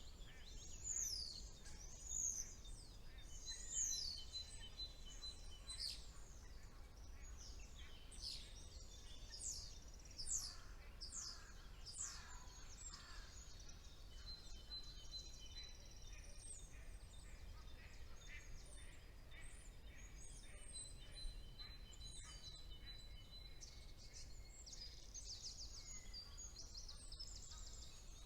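Songbirds singing together in spring woodland: quick falling whistles and trills, with some longer level whistles, over a faint steady low background hum.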